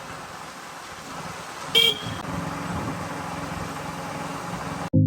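Road vehicle on the move with steady road and wind noise; a short horn beep sounds about two seconds in, after which a low engine hum comes up. Music cuts in right at the end.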